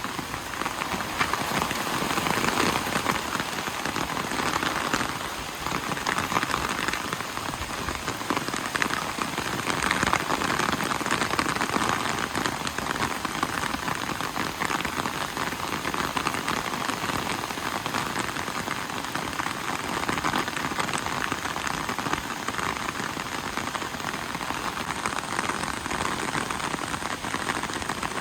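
Steady rain falling, a dense, even patter of drops on surfaces.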